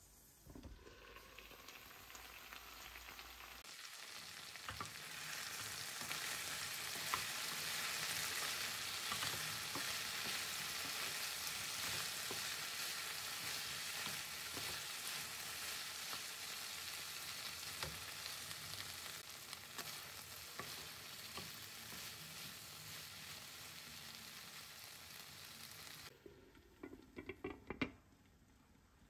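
Diced potatoes, carrots, onion and broccoli sizzling in oil in an open nonstick frying pan, stirred with a wooden spatula; the sizzle builds over the first few seconds and stays steady. Near the end it drops away and there are a few sharp knocks as the glass pot lid is set back on the pan.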